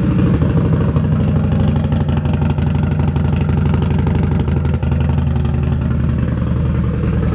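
2006 Harley-Davidson Dyna Super Glide Custom's Twin Cam 88 V-twin idling steadily through a 2-into-1 Python Performance exhaust.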